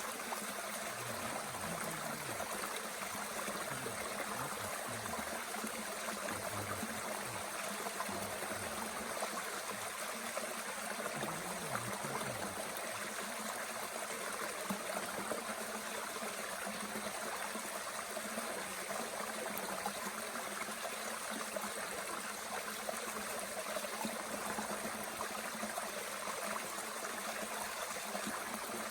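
Mountain stream running steadily, an even rushing of water.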